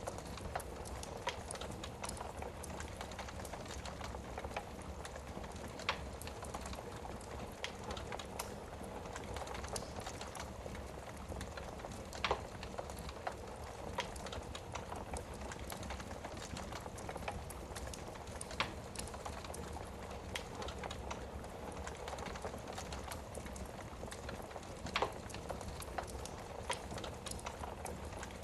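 Wood fire burning in a fireplace: a steady crackle of small snaps, with a louder single pop every several seconds.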